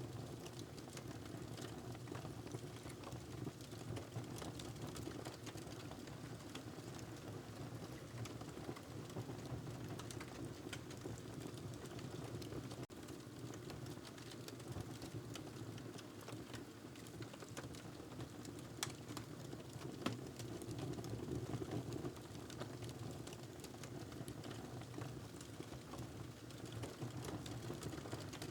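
Wood fire crackling in a fireplace: a steady low rumble of flames with irregular small pops and snaps, one sharper pop about twenty seconds in.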